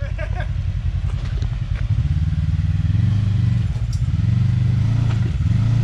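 Off-road vehicle engine running low, then revved up from about two seconds in and held high, easing off briefly before rising again near the end.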